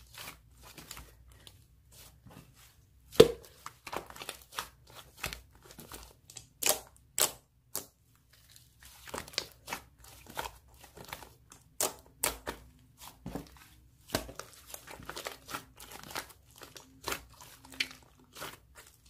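Slime being squished and pressed by hand, making irregular sharp crackles, clicks and pops with no steady rhythm.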